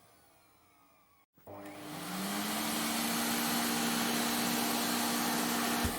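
Vacuum cleaner motor spinning down, its pitch falling and fading to almost nothing. About a second and a half in, it is switched on again, and its whine rises and settles into a steady run with a loud rushing hiss.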